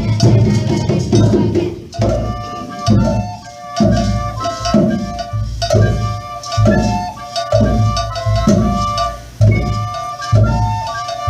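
Children's percussion ensemble playing: a steady drum beat with short pitched notes from struck instruments over it, denser for the first couple of seconds.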